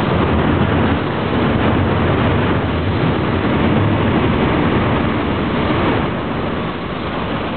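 Freight train hauled by a diesel locomotive: the last open wagons roll past on the rails, then a steady rumble as the train moves on, easing a little near the end.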